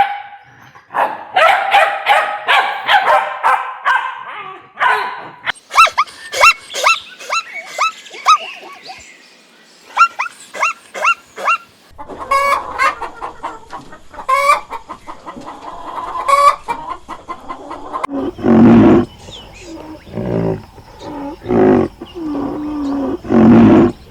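Chickens clucking, with a rooster crowing: a string of short, sharp hen calls in the middle, then louder, longer and lower calls in the last few seconds.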